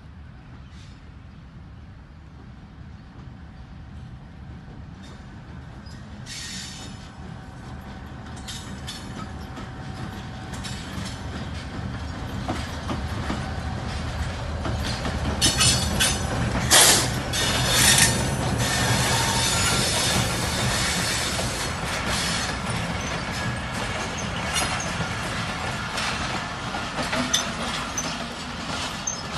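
Pakistan Railways GEU-20 diesel locomotive hauling a passenger train past at close range, growing steadily louder as it approaches. The loudest part, about 16 to 18 seconds in, is a run of sharp clatter and squeal from the wheels. The coaches then roll past with a steady rumble and clickety-clack of wheels over rail joints, slowing to stop at the platform.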